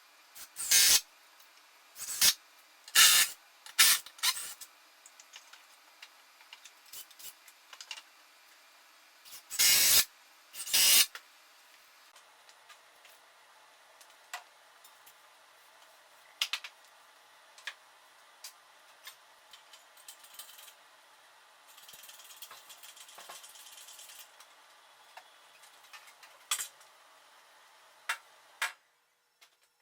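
Workshop handling noises: a handful of short, loud scraping or clanking bursts in the first ten seconds or so, then scattered light clicks and taps and a brief hiss.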